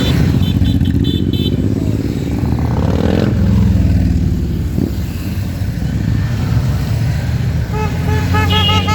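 A mass of motorcycles running and passing, their engines making a dense, steady rumble with a rev rising and falling a little past three seconds in. Horns toot in short repeated beeps in the first second or so and again near the end.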